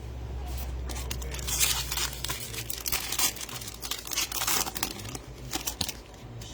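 Foil trading-card pack wrapper being torn open and crinkled by hand, a dense run of sharp crackles that is loudest in the first half and thins out near the end.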